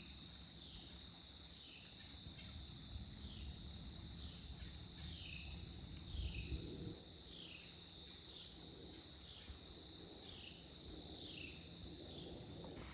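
Crickets trilling steadily in a high, continuous chorus, with short falling chirps repeating about once a second beneath it. A low rumble runs underneath.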